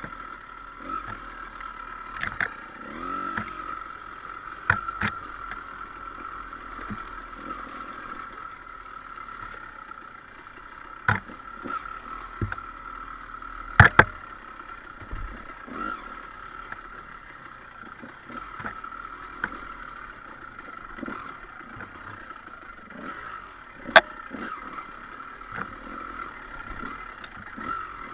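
Trail motorcycle engine running at a steady pitch, with scattered sharp knocks and clatter.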